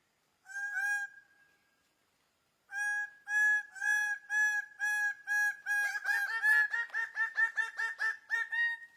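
A bird calling: one clear note, then a long series of repeated notes at about two a second that speeds up after about six seconds and breaks off near the end.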